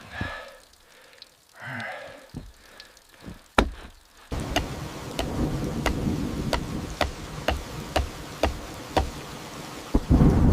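Steady rain starts abruptly about four seconds in, with sharp ticks about twice a second on top. Near the end a low rumble of thunder rises. Before the rain there are only a few soft knocks.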